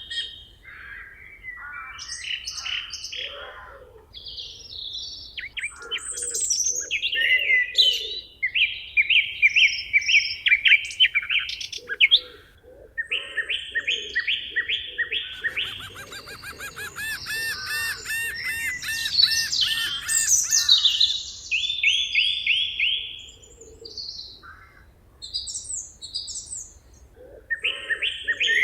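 Several songbirds singing at once in a forest chorus: overlapping chirps and rapid, repeated trilled phrases, with a lower pulsing call underneath at times.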